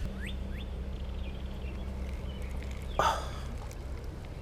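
A steady low hum, with a few faint bird chirps in the first second and a brief sharp sound about three seconds in.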